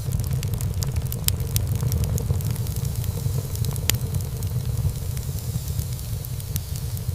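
Wood fire burning in a fireplace: a steady low rumble of flames with irregular crackles and pops of burning wood, two sharper pops at about one and four seconds in.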